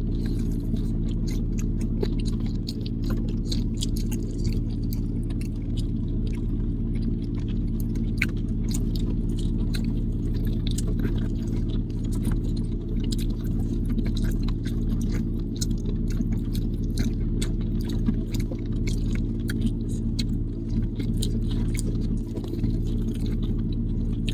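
Close chewing and biting of boiled corn on the cob, many small crisp clicks, over the steady low drone of a moving car's cabin.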